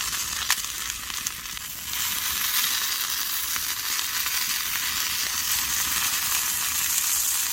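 Chicken sizzling steadily on a hot elvan-stone grill plate over a wood fire, with a few small pops in the first couple of seconds.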